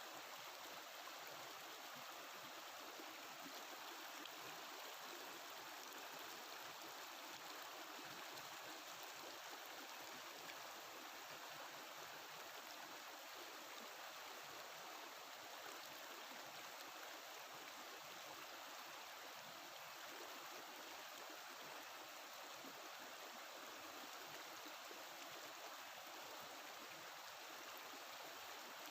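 Mountain river water flowing and babbling in a steady, even rush.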